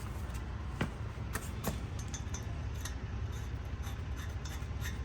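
Small metal nuts clicking and clinking as they are handled and tried for fit on exhaust manifold studs: a handful of light, scattered clicks.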